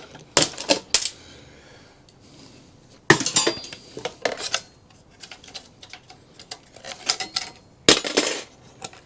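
Sharp metallic clinks and short clattering rattles of old desktop PC parts being handled and pulled apart by hand, in irregular bunches with quiet gaps between.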